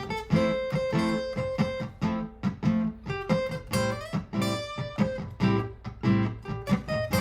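Martin GPCPA4 acoustic guitar played through a looper: a looped strummed chord part with plucked notes improvised over it, several note attacks a second ringing together.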